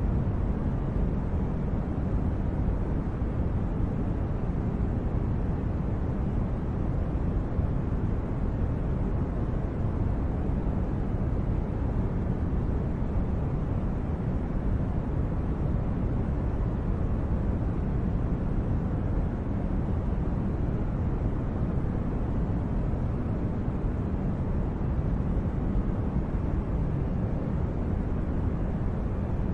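Steady, even low rumbling noise with no distinct events: the background noise bed of a sleep recording.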